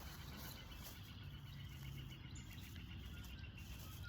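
Faint, steady chorus of insects: a rapid pulsing chirp held at one pitch, with a low rumble underneath.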